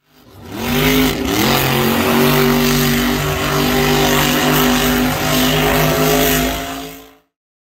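An engine held at high revs, with a short dip and rise in pitch about a second in; it fades in and fades out near the end.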